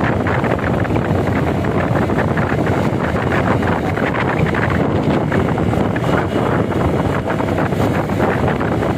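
Steady wind buffeting the microphone of a moving bike, with road and vehicle noise beneath it.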